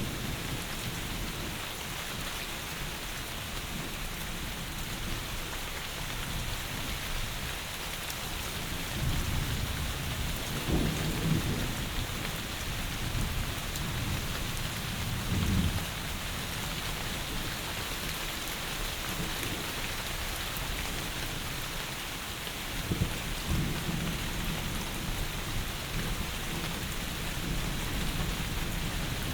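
Heavy rain falling in a steady, dense hiss, with low rumbles of thunder swelling up three times: about a third of the way in, around the middle, and again past three quarters of the way.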